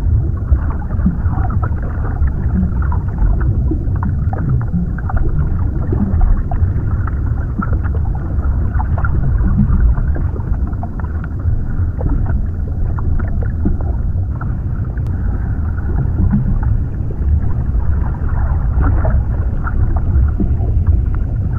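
Underwater ambience: a steady, muffled low rush of water with many faint scattered crackles and small bubbly ticks.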